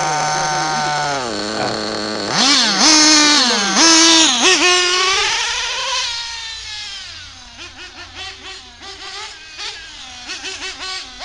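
Small two-stroke nitro engine of an RC buggy, first running steadily, then revved hard in repeated surges about two seconds in. Its pitch then rises and falls as it fades, as the buggy drives off.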